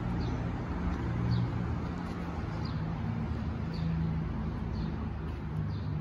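Steady low mechanical rumble with a bird giving a short, high, falling chirp about once a second.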